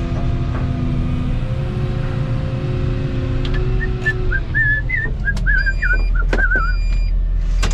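Excavator's diesel engine running with a steady low drone; its steady tones fade out about halfway through. A wavering high whistle follows for a few seconds, and a few sharp knocks come near the end.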